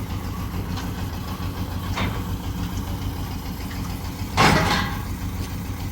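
Engine idling steadily, with a short, louder rattling burst about four and a half seconds in.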